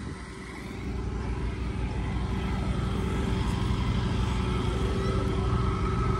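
Car engine running, growing louder over the first two seconds and then holding steady.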